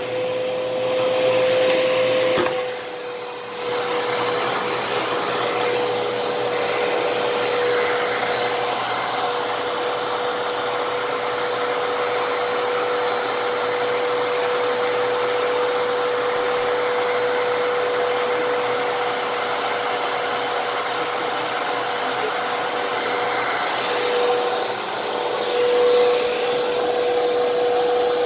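Fantom Fury vacuum cleaner running: a steady motor whine over rushing air. About two and a half seconds in, a click and a brief drop in loudness.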